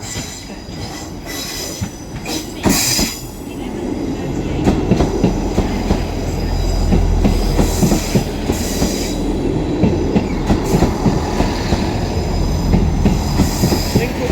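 A train rolling through the station, its low rumble growing louder a few seconds in, with a rapid clatter of wheels over the rails and brief high-pitched wheel squeals.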